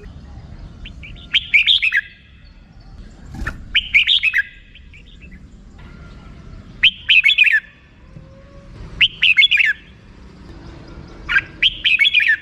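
Red-whiskered bulbul singing its 'rik' song: five short, bubbly warbled phrases, each about a second long, repeated every two to three seconds.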